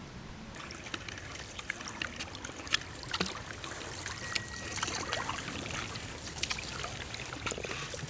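Water trickling and splashing around a canoe being paddled, with many small drips and splashes. A brief high steady tone sounds near the middle.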